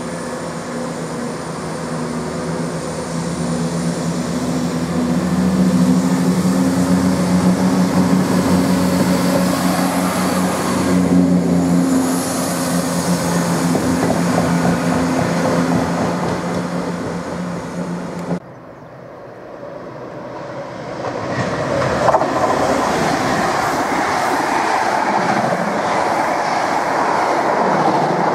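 A Class 170 Turbostar diesel multiple unit running past with its diesel engines droning steadily, growing louder as it comes close and then fading. After a sudden cut, a rake of Mk3 passenger coaches passes with a rising rumble of wheels on rail and a single knock.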